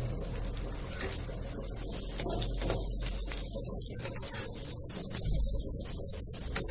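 Batter-coated brinjal slices shallow-frying in hot oil on a high flame, sizzling and crackling steadily.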